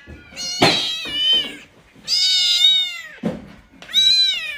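A cat meowing: three long meows, each bending down in pitch at the end.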